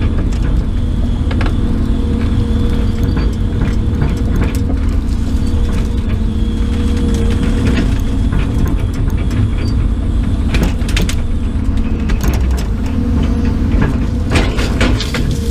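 Brush bonfire crackling and popping, with a dense run of pops near the end, over a steady low motor hum.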